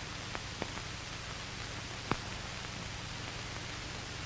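Steady hiss and low hum of an old film soundtrack, with a few faint clicks. The loudest click comes about two seconds in.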